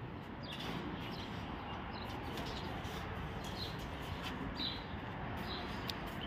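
Faint outdoor background hiss with scattered short, high bird chirps.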